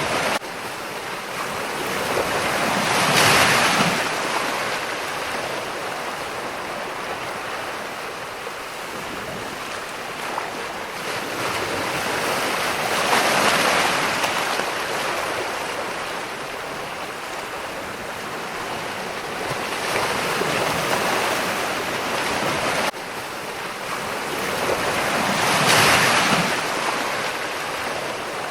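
Ocean waves surging and breaking, the wash of surf rising and falling, with four swells that build and fade. The sound level jumps abruptly near the start and again about 23 seconds in.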